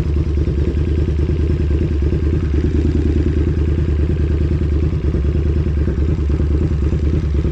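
KTM 1290 Super Duke's V-twin engine running at steady revs, a low, even pulsing with no change in pitch.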